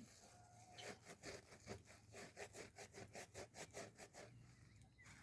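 Hand saw cutting through wood: a quick, even run of faint rasping strokes, about five a second, that starts about a second in and stops about a second before the end.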